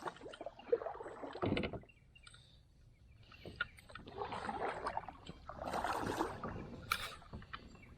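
Water sloshing and movement aboard a kayak come in several short bursts, with a few sharp knocks against the hull.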